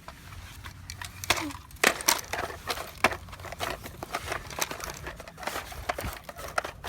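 Toy excavators and dozers scraping and crunching through dirt, with irregular clicks and knocks.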